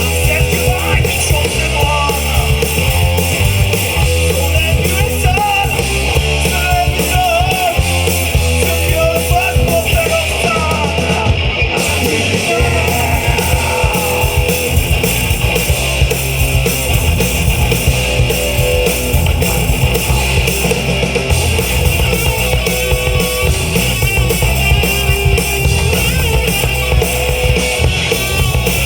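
Four-piece rock band playing: lead and rhythm electric guitars, bass guitar and drum kit, loud and continuous.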